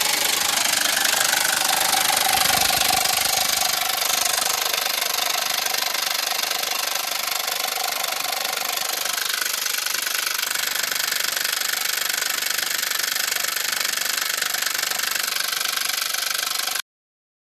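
Honda Pilot's 3.5 L V6 engine running steadily with a busy mechanical clatter, just after a timing belt replacement. It cuts off suddenly near the end.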